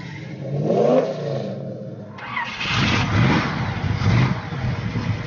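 Car engine being revved: a rev that rises and falls about a second in, then louder, repeated revving from about two seconds on.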